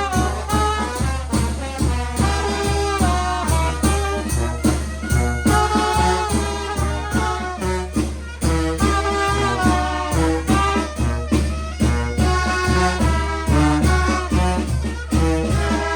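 Brass band music with a steady, strong beat: brass instruments playing a melody over a regular low pulse.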